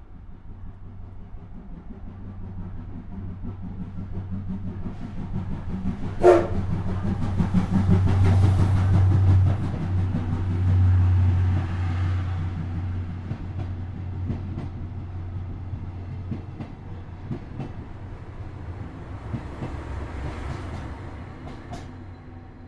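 A steam-hauled train passing on the adjacent track, its rumble and wheel clatter swelling to a peak and then fading away, with a short sharp blast about six seconds in.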